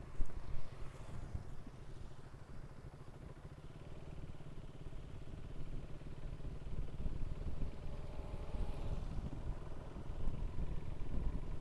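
Motorcycle engine running steadily while riding, with a fast even pulsing and light road and wind noise, heard from on the bike. Two sharp knocks just after the start.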